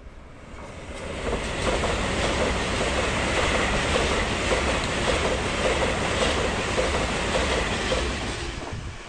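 A Taiwan Railways train passing at high speed, its wheels on the rails rushing and clattering. The sound builds over the first second or so, holds loud, and fades near the end.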